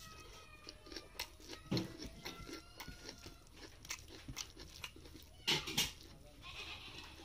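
Close-miked eating: wet chewing and mouth clicks from a mouthful of rice and curry, with fingers mixing rice on a steel plate. Two louder clicks come close together about three quarters of the way through.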